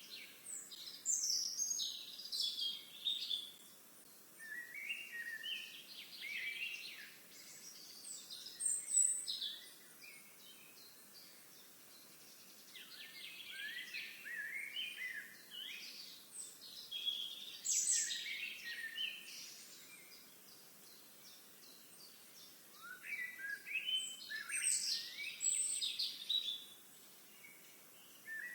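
Songbirds singing, with quick high chirping phrases coming in bouts of two to four seconds with short pauses between, over a faint steady outdoor hiss.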